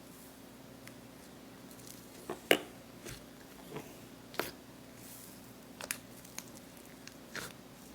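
Slime being pressed and worked by hand, giving scattered short, sharp pops and crackles with quiet between them; the loudest come about two and a half and four and a half seconds in.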